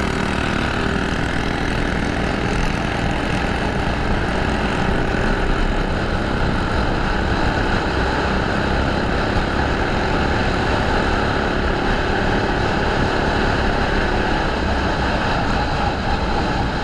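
Small single-cylinder Predator mini bike engine running steadily while riding, with wind rushing over the microphone.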